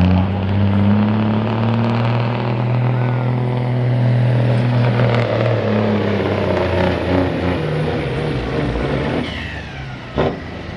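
Diesel semi truck pulling a weight-transfer sled under full load, its engine holding a steady deep note that then dies away about nine seconds in as the run loses momentum short of the end. A sharp knock follows near the end.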